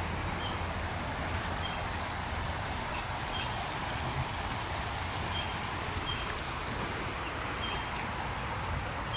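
Creek water running with a steady rush, a low rumble underneath, and a few short high chirps scattered through it.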